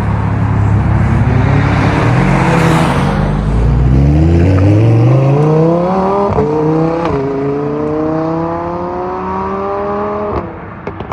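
A car engine accelerating hard, its pitch climbing steadily with two quick dips at gear changes partway through.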